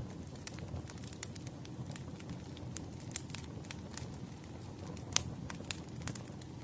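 Wood fire burning: firewood crackling and popping with irregular sharp snaps over a low steady rumble of the flames, one louder pop a little after five seconds in.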